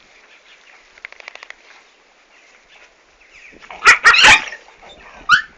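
Dog barking: a loud burst of barks about four seconds in and one shorter bark near the end, over faint bird chirps.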